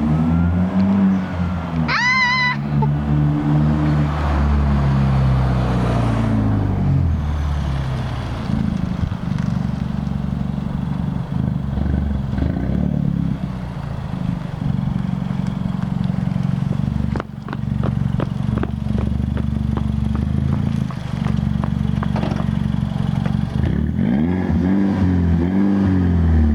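Exhaust of a 2009 Mini Cooper S (R56) turbocharged 1.6-litre four-cylinder, run through a Flowmaster Super 10 muffler with the resonator deleted. The engine revs up and down for the first several seconds, settles to a steady idle, then is revved again near the end. A brief high, wavering squeal cuts in about two seconds in.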